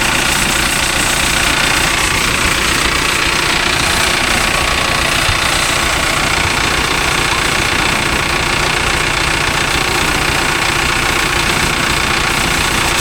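An engine running steadily under a loud, constant hiss of water spray, as during a high-pressure wash of a tractor.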